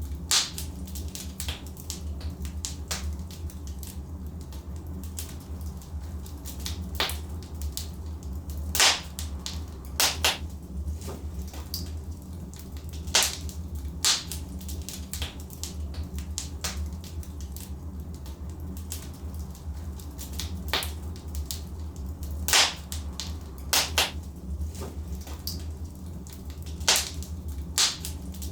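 Logs burning in a fireplace, crackling with irregular sharp snaps and a handful of louder pops, over a steady low rumble of the fire.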